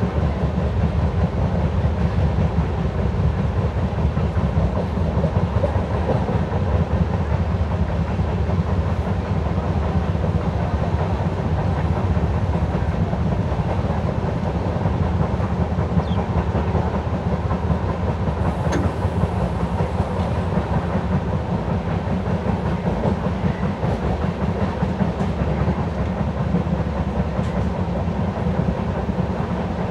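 LHB passenger coach running on the track: a steady rumble of wheels on rail with the rattle of the carriage, heard from a window seat inside the coach.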